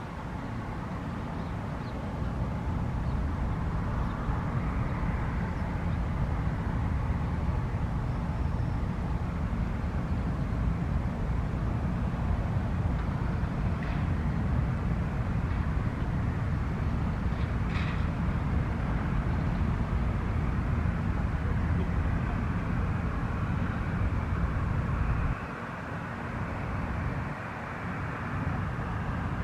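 Jet airliner's engines making a loud, steady rumble, with a hiss above it. The deep part of the rumble drops away suddenly near the end.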